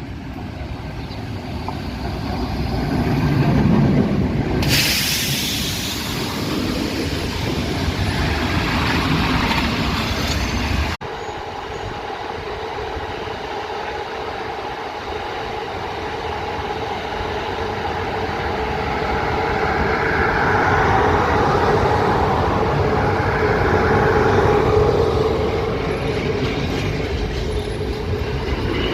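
Passenger train rolling past on the rails. There is a sudden loud hiss about five seconds in, a brief drop-out near eleven seconds, then a steady hum from the wheels and cars that swells and fades.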